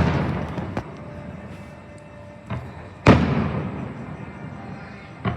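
Aerial fireworks going off: a loud bang right at the start and another about three seconds in, each trailing off slowly, with smaller bangs in between and near the end.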